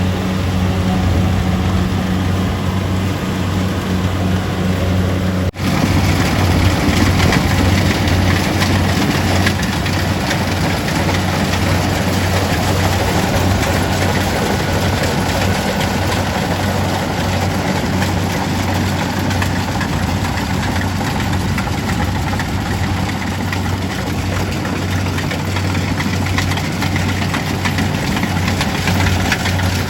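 Kubota DC-70G rice combine harvester's diesel engine running steadily under load. It breaks off briefly about five and a half seconds in, then carries on with a denser, noisier mechanical din.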